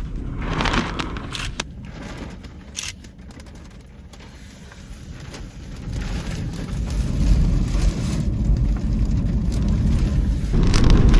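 Severe-storm crosswind buffeting a car, heard from inside the cabin as a low rumbling rush with scattered small clicks. It eases off about four seconds in, then builds steadily louder.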